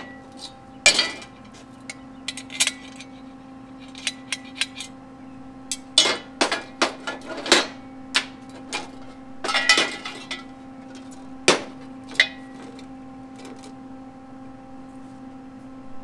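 Metal parts knocking and clinking on a steel welding table as pieces of thin-wall square tubing, pins and bolts are handled and set down: irregular sharp clanks, bunched through the middle and dying away near the end, over a steady low hum.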